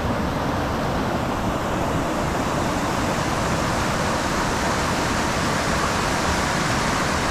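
Steady rushing of fast-flowing water in high flow past an ice shelf, an even noise without breaks.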